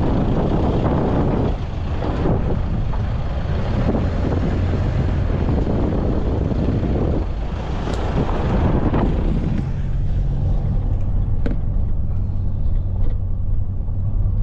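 Vehicle driving, with a low engine drone under loud tyre and road noise. About ten seconds in, the road noise drops away and a steady engine hum remains.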